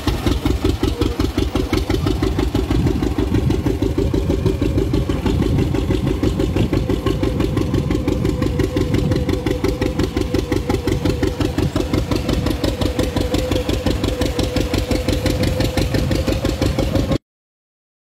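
Tractor engine running steadily with rapid, even exhaust beats. It cuts off abruptly near the end.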